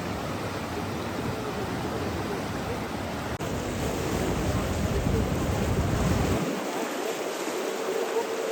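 Steady rushing water noise. About a third of the way in the sound changes abruptly, and about two-thirds in the deep rumble drops away, leaving a lighter, higher hiss.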